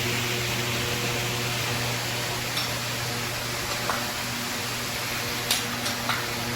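Steady hum and hiss with a few short, sharp clicks of spanners on the transformer's bolt nuts as they are tightened, the loudest about five and a half seconds in.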